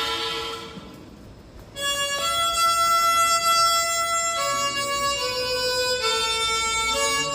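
Harmonica music: a slow melody of long held notes. A chord fades away over the first two seconds before the tune comes in.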